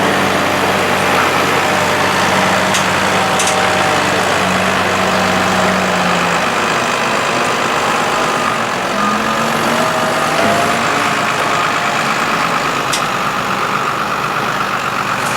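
Tractor diesel engines running at a silage clamp as a tractor and trailer move into the heap, the engine note changing about halfway through.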